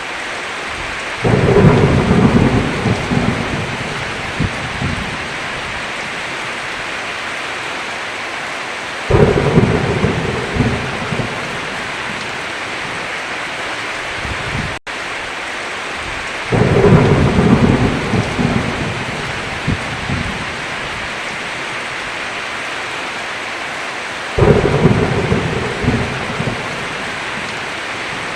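Heavy rain falling steadily, with four claps of thunder about eight seconds apart. Each starts suddenly and rumbles away over a few seconds.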